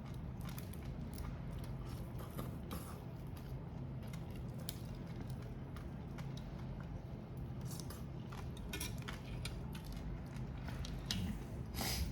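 Close-up eating sounds: a person chewing and handling grilled prawns and crab, many small scattered clicks and crackles, with a louder crackle near the end. A steady low hum runs underneath.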